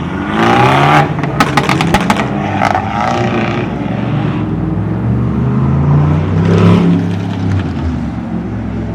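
A car engine revving hard as it accelerates, with a quick string of sharp exhaust pops about a second and a half in. The engine climbs in pitch again around six to seven seconds.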